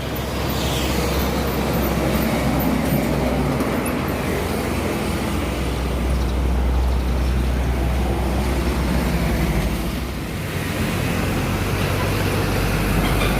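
Heavy truck traffic on a highway: a steady low engine drone with road noise, easing briefly about ten seconds in before another vehicle comes through.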